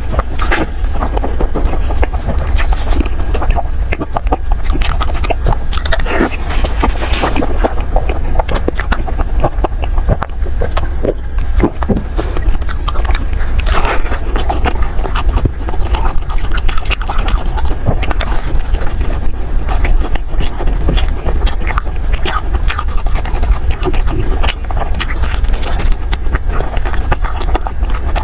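Close-miked eating sounds: soft desserts bitten and chewed, with a constant run of small wet clicks and crackles over a steady low hum.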